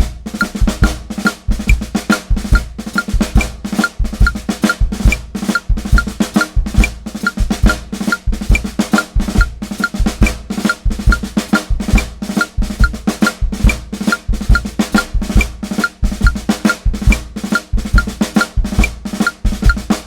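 Drum kit played in ratamacue rudiment patterns on the snare: triplets opened with drag grace notes and ending on an accent, hand to hand, over a steady bass-drum pulse. A metronome clicks along at an even beat.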